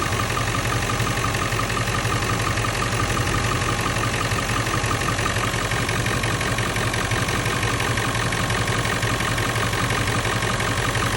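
1997 Ford F-350's 7.3 L Powerstroke turbo-diesel V8 idling steadily. It now has a new alternator fitted and runs smoothly, without the knocking chatter that the old alternator was making.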